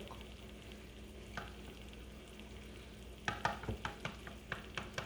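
Eggs being beaten with a spatula in a bowl: a quiet stretch, then from about three seconds in a quick run of clicks as the spatula knocks against the bowl, about four a second.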